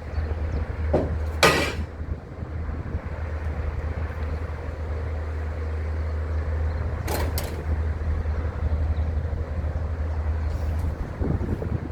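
A steady low motor hum, with two short sharp clattering noises, one about a second and a half in and one about seven seconds in. The hum stops near the end.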